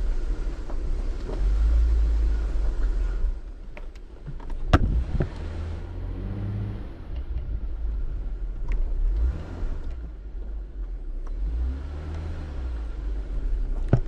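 Off-road vehicle crawling over a rough, rocky dirt road, its engine running low under a steady low rumble. Sharp knocks sound as it goes, one about five seconds in and another near the end.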